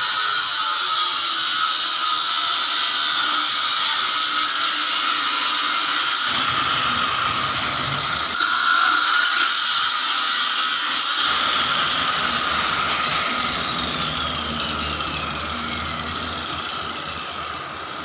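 A motor-driven tool or machine running with a steady loud hiss and a high whine. Over the last several seconds a faint whine slides down in pitch and the sound slowly fades.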